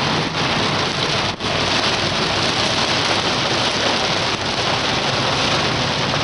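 Torrential thunderstorm rain pouring down in a steady, dense hiss.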